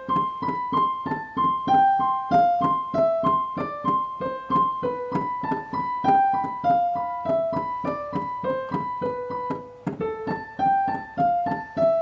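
Piano played with one hand: a steady run of single notes, about four a second, a repeated high note alternating with a melody that steps downward.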